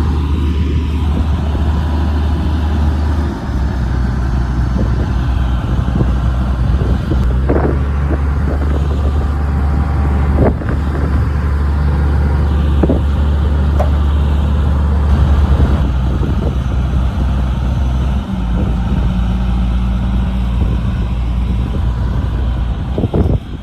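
Large diesel engine of heavy earthmoving machinery running steadily under load, with its tone shifting about 3 seconds in and again near 18 seconds. A few short, sharp knocks stand out over it.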